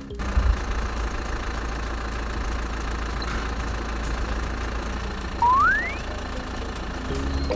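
Small motor running steadily with a low hum. A loud rising whistle-like glide comes about five and a half seconds in.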